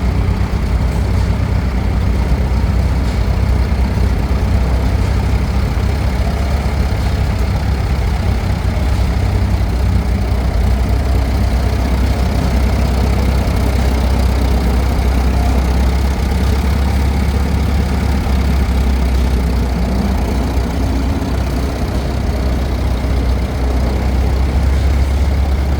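Vintage McCormick-Deering W-30 tractor engine running steadily at a low, even speed with a deep, constant hum.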